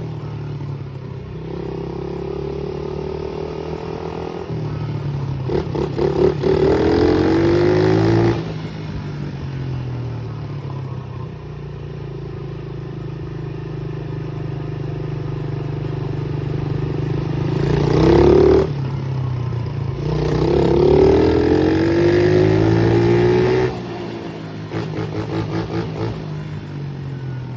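Pit bike engine running while being ridden, revved up twice with its pitch climbing under throttle, then dropping off sharply each time the throttle is closed.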